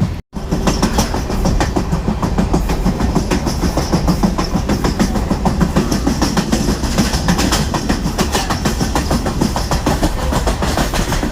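A moving train running: a steady low rumble with rapid rattling and knocking. The sound drops out for a moment just after the start.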